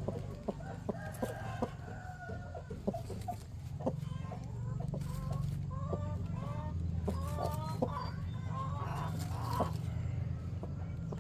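Chickens clucking, with many short, overlapping calls, over a steady low hum.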